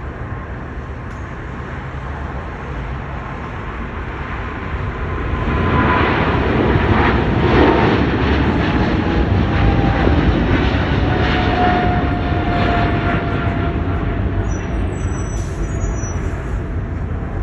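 Jet airliner passing close by: the engine noise swells about five seconds in, and a high whine slowly falls in pitch as the plane goes past.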